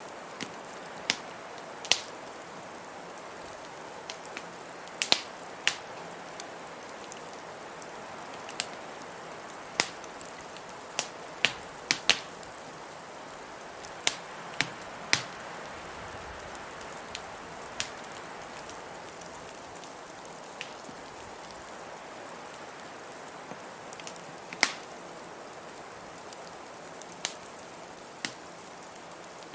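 Wood fire crackling in a fireplace: irregular sharp pops and snaps, about one a second and some much louder than others, over a steady hiss of blizzard wind.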